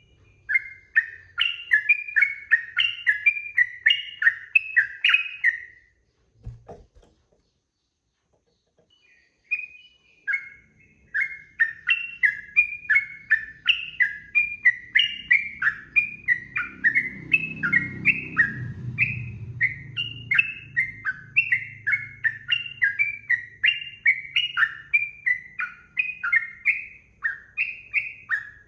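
Sooty-headed bulbul (trucukan) singing a long, rapid run of short repeated phrases. The song stops about six seconds in with a brief thump and a few seconds of silence, then picks up again and runs on.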